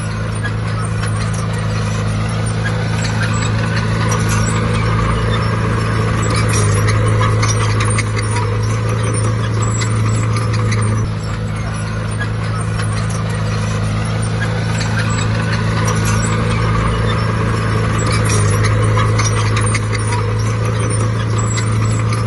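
Heavy diesel engine of earthmoving machinery running steadily, a deep drone that dips slightly about halfway through and swells again.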